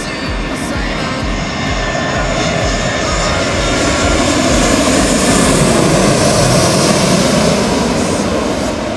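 Jet airliner, an Airbus A340, passing by with its engines running: a broad, steady jet noise that swells to its loudest about six to seven seconds in and then begins to ease.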